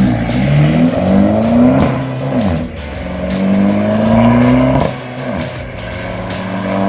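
Volkswagen Golf V 2.0 TDI four-cylinder diesel engine running through a 63 mm downpipe and custom exhaust, pulling up through the gears: the note climbs steadily, drops sharply at a gear change about five seconds in, then climbs again. A quieter background music beat runs underneath.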